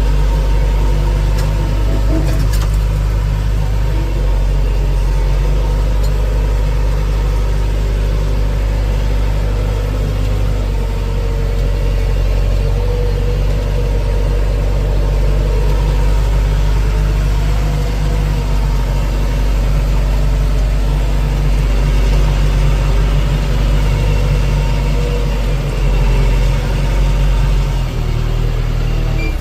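Diesel engine of a tractor or backhoe loader running steadily at a constant speed, with a slight change in its note near the end.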